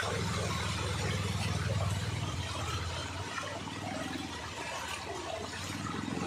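Floodwater rushing and splashing steadily. A low engine rumble underneath fades out about halfway through.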